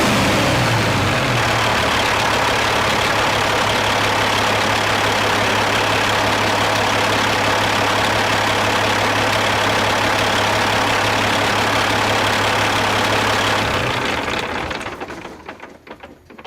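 Caterpillar 3406E inline-six diesel engine idling. Its speed drops in the first second or so, then holds steady. Near the end it is shut off and runs down to a stop.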